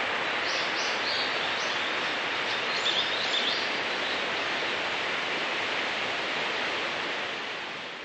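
Steady rush of flowing water from a mountain stream or waterfall, with a few short bird chirps over it in the first half. The sound fades out near the end.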